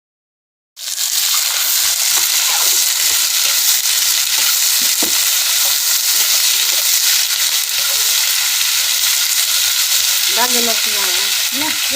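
Chicken frying in hot oil in a pan: a loud, steady sizzle that starts about a second in, with the pieces being stirred.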